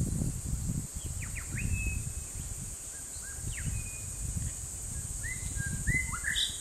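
Birds calling in the background: short whistled notes that rise sharply and then hold briefly, a few at a time from about a second in and more often near the end. Beneath them run a steady high hiss and a low rumbling noise.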